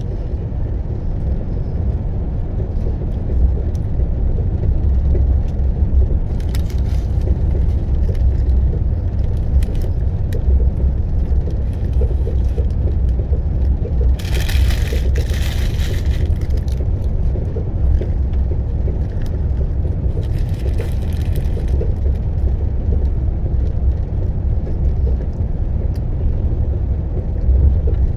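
Passenger train running: a steady low rumble, with three brief rushes of higher hiss, the longest about halfway through.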